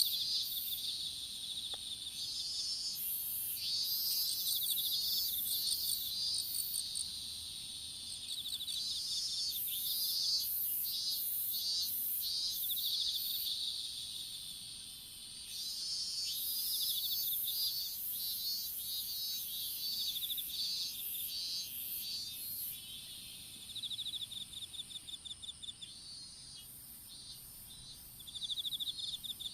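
Insects such as crickets singing: overlapping high-pitched chirps and rapid pulsed trills over a steady high drone. The loudness rises and falls, with quick sharp pulses near the end.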